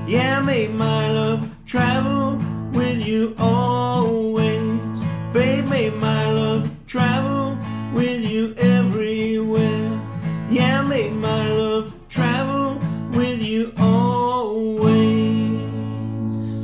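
Instrumental outro on acoustic guitar: strummed chords under a melody line that slides up in pitch now and again. It ends on a final chord, struck about fifteen seconds in and left to ring and fade.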